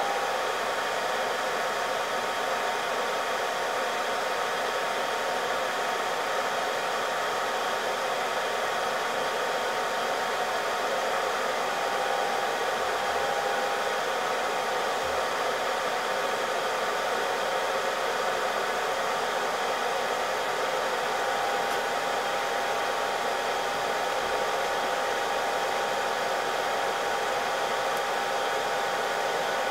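Hot-air reflow tool blowing steadily, a continuous rushing whoosh with a faint steady whine, as it heats the laptop's graphics chip for a reflow.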